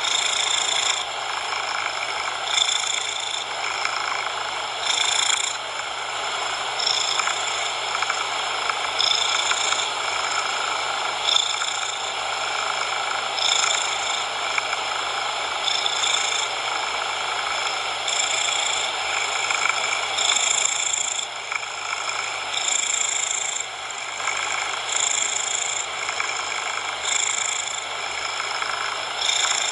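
A cat purring steadily, swelling and easing with each breath about every one to two seconds, over a steady hiss of coloured noise.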